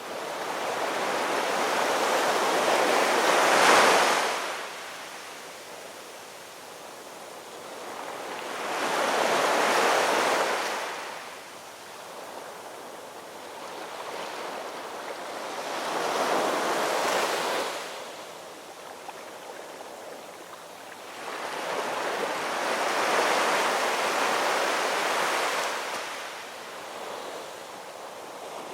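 Ocean surf: waves break and wash up the shore in slow swells of noise, roughly one every six or seven seconds, with quieter wash between them. The loudest wave peaks and cuts off fairly suddenly about four seconds in.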